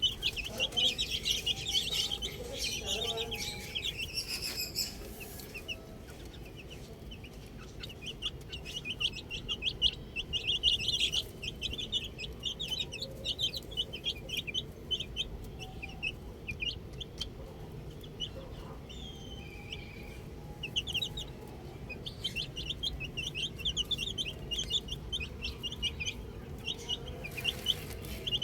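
A flock of baby chicks peeping continuously: many short, high-pitched cheeps overlapping, busiest near the start and again about ten seconds in.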